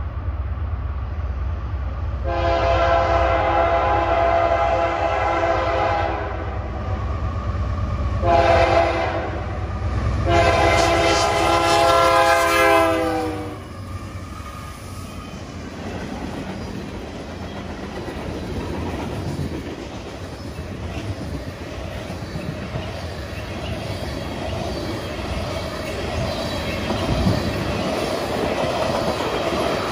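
An approaching freight locomotive's air horn sounds three chord blasts over the low rumble of the train: two long and one shorter between them. The last blast falls in pitch as the lead locomotives pass. The train's freight cars, tank cars and hoppers, then roll by at about 50 mph, with steady wheel clickety-clack.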